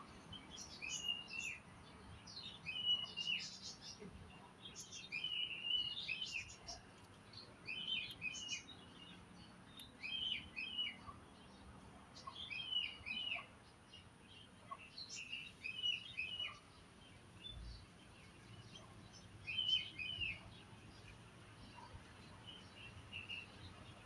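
Birds chirping: short, sharp calls repeated every second or two, often in close pairs, with a longer pause in the later part.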